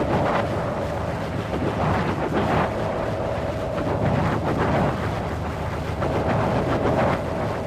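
Wind blowing hard and steadily, with gusts swelling every second or two over a low rumble and a faint whistle coming and going.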